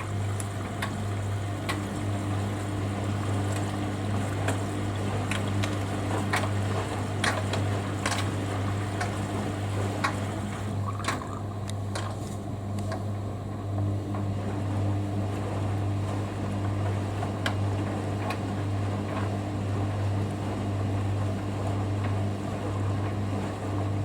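Front-loading washing machine filling for a rinse, water running and splashing into the drum with scattered clicks over a steady low hum. The inflow hiss dies away about halfway, leaving the hum and a faint intermittent drone.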